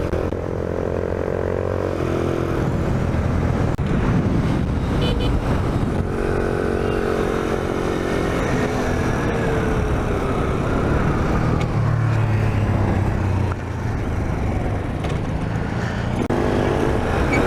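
Skyteam Dax monkey bike's small engine running under way, its pitch rising and falling with throttle and gear changes, with wind rushing over the helmet microphone.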